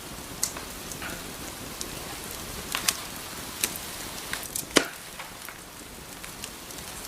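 Wood fire crackling in a fireplace: a steady hiss with irregular sharp pops, the loudest a little under five seconds in.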